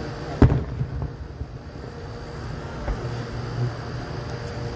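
A firework shell bursting with one sharp, loud bang about half a second in, followed by a few smaller pops and a fainter bang near three seconds, over a steady low hum.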